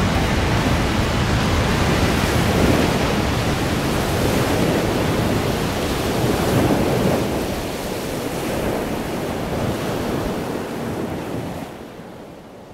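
Lake Superior waves breaking and surging in a blizzard, with wind buffeting the microphone; the sound fades down near the end.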